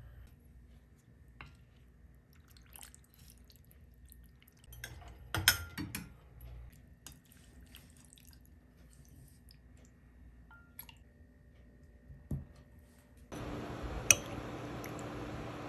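Light clicks and taps of small objects being handled, with a louder clatter about five and a half seconds in. Near the end a steady rushing noise starts suddenly, with one sharp click just after it.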